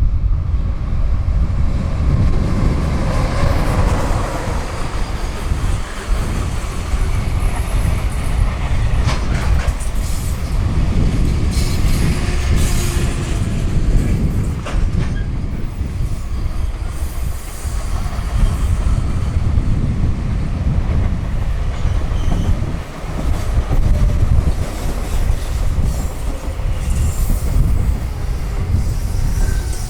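Long freight train of container wagons passing at high speed, a continuous heavy rumble with wheels clattering over the rails and scattered sharp clicks.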